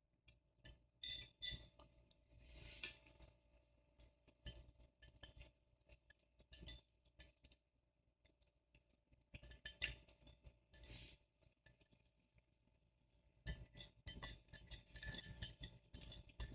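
Eating utensils clinking and scraping against a bowl at scattered moments while the last bits of noodles are picked up, with quiet gaps between and a busier run of clicks near the end.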